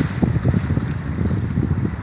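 Gusty wind buffeting the microphone in a steady low rumble, over the wash of choppy Lake Ontario waves breaking along the shore.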